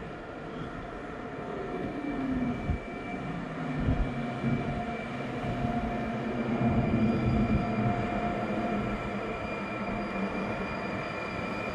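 Train running through a station, a steady rumble with several whining tones over it; one tone falls in pitch about two seconds in, and a few dull knocks come through, loudest around the middle.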